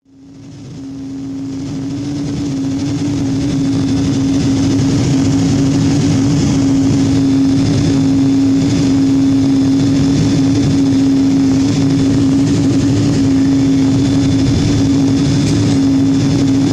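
Steady cabin noise inside a Boeing 777-200 standing on the taxiway with its engines running: a constant hum over a rushing hiss of engine and air-conditioning noise. It fades in over the first few seconds.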